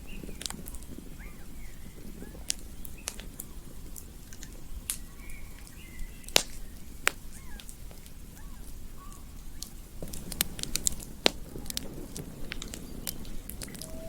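Campfire crackling, with irregular sharp pops and snaps over a low steady rush of burning wood, and a few faint short chirps in the background.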